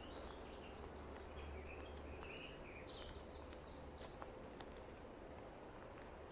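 A small songbird calling over a faint, steady forest background hiss. About two seconds in it gives a quick trill of short, falling high notes, with a few scattered chirps around it.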